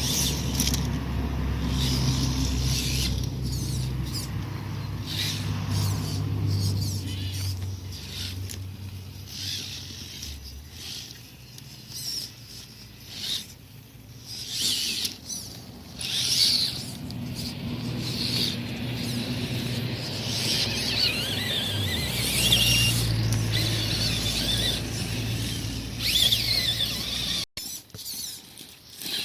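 Radio-controlled scale trail truck crawling over dirt and rocks: its electric motor and gears whine, over scattered crackling and clicks from the tyres and loose stones. The low motor hum runs for the first ten seconds or so, drops away, and comes back near the end.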